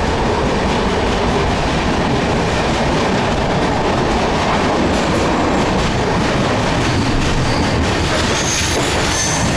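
Passenger train running at speed, heard from aboard: a loud, steady rumble and rattle of wheels on the rails. Faint high wheel squeal comes in near the end.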